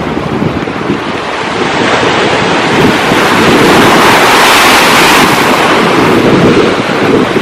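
Sea waves breaking and surging on the shore, with wind buffeting the microphone; a wave builds to its loudest about halfway through and then eases off.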